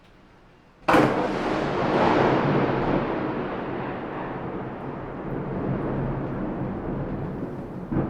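Thunderclap: a sudden sharp crack about a second in, followed by a long rolling rumble that slowly fades, with another small burst near the end.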